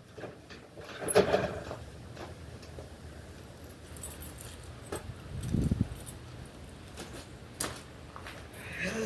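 Keys jangling and small clicks of handling, with a short low thud about five and a half seconds in; the lawn tractor's engine is not running.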